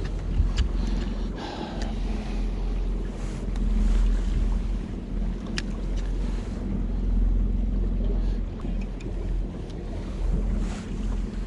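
A boat's motor running with a steady low hum, with wind buffeting the microphone and a few light clicks.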